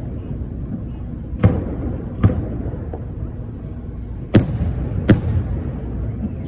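Fireworks going off: four sharp bangs in two pairs, each pair under a second apart, with a pause of about two seconds between the pairs.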